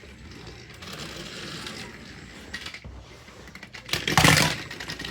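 Small battery-powered toy train engines whirring, their motors and gears grinding as two of them push against each other, with a louder rattling burst about four seconds in.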